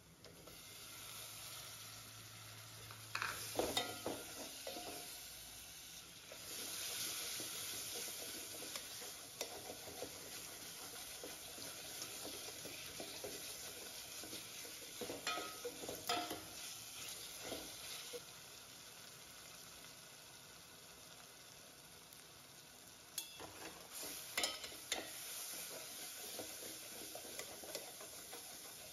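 Chopped tomatoes sizzling in hot oil with tempered spices in a stainless steel pot. A clatter about three seconds in comes as the tomatoes go in. The sizzling grows louder a few seconds later, while a steel ladle stirs and clinks against the pot several times.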